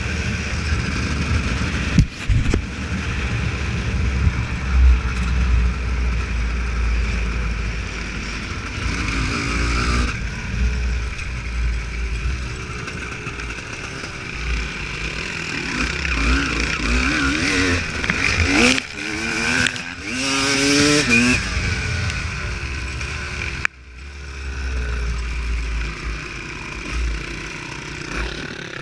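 Two-stroke motocross bike engine, a Honda CR250, revving up and down repeatedly while riding off-road, with a heavy low rumble throughout. The sound breaks off abruptly about three-quarters of the way in, then resumes.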